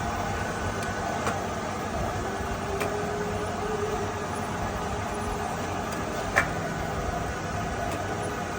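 A machine running steadily with an even mechanical hum and a faint steady tone, with a few light clicks and one sharper click about six seconds in.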